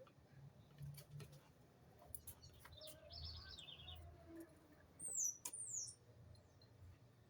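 Small birds calling faintly: a quick run of high chirps about three seconds in, then two high falling whistled calls, the loudest sounds, with scattered light clicks throughout.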